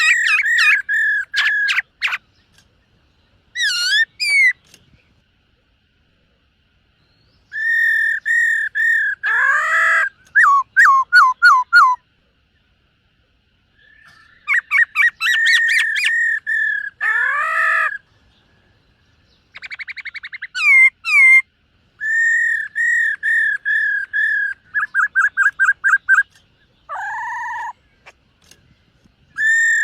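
Black-throated laughingthrush singing: loud phrases of clear, repeated whistled notes, with quick runs and sliding notes, broken by pauses of a second or two.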